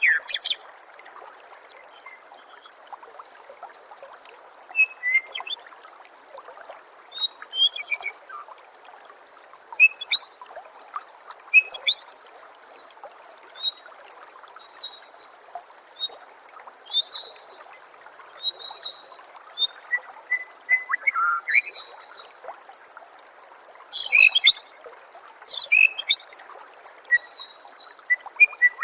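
White-rumped shama (murai batu) singing in short, scattered phrases of sharp chirps and whistles, over a steady trickle of running water.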